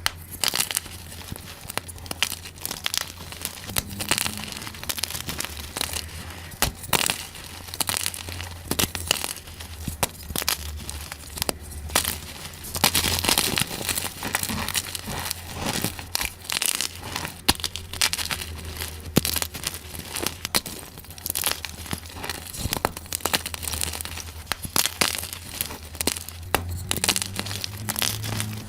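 Gym chalk being crushed, sped up: a dense, irregular run of crunching crackles throughout.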